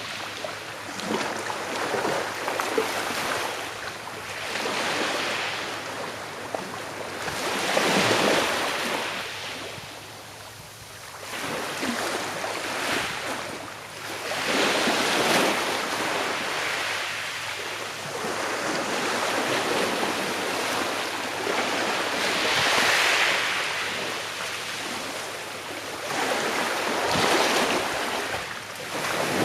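Gentle sea waves breaking and washing up the shore, a swell of surf rising and falling away every few seconds.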